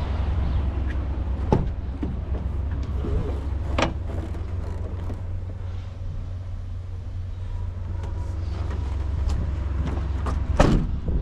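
Detroit DD13 diesel engine of a Freightliner 114SD truck idling with a steady low rumble, broken by a few sharp knocks, the loudest near the end.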